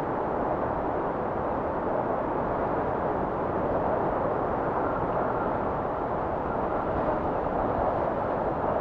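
Steady blizzard wind: a constant, even rush of noise with gentle swells and no gusts or breaks.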